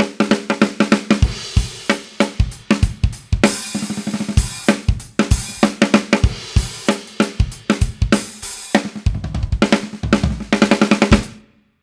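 Drum kit groove with bass drum, hi-hat and cymbals, centred on a Gretsch 14x6.5 Full Range walnut snare with an Evans UV1 head, damped by two Evans EQ pod gel mufflers. The snare is heavily muffled, too much for this tuning, and the playing stops shortly before the end.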